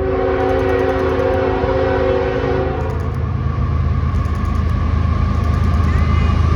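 Multi-chime air horn of a CSX freight train's GE diesel locomotive sounding one long blast of about three seconds, over the steady rumble of the locomotive and train running past.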